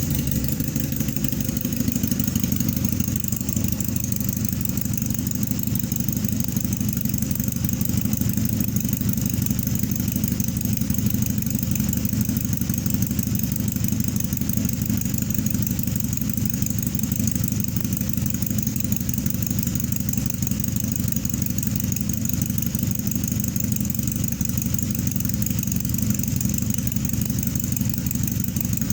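1986 Honda Limited Edition's engine idling steadily after a cold start at about 40 °F, still warming up.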